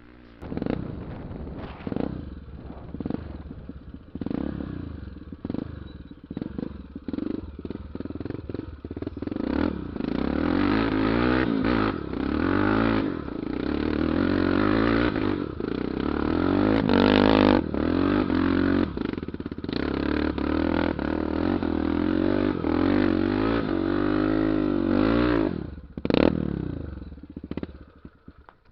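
Motorcycle engine revved in a series of short blips, then held running at wavering, higher revs, with one last sharp rev near the end before it dies away.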